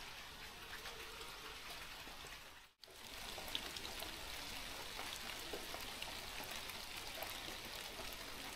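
Steady rain falling: an even hiss with scattered small drop ticks. It cuts out for an instant about three seconds in, then carries on.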